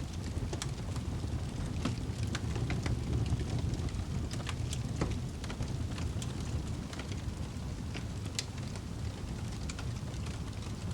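A wood fire burning in a fireplace: a steady low rush of flame with irregular sharp crackles and pops from the burning logs.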